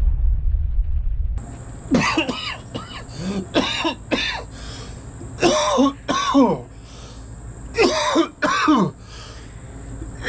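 A person coughing and hacking, about eight harsh outbursts with pitch falling in each, after the low rumble of a boom dies away about a second and a half in. A steady high-pitched ringing tone runs under the coughs.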